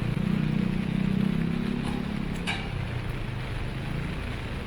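A motor vehicle engine running close by, loudest in the first couple of seconds and then fading, with two light clicks about two seconds in.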